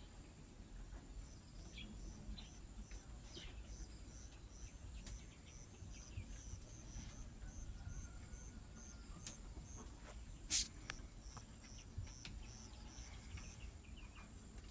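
Faint cricket chirping in a steady high-pitched rhythm, about three chirps a second, over a low rumble of background noise. Scattered small clicks, with one sharper click about ten seconds in.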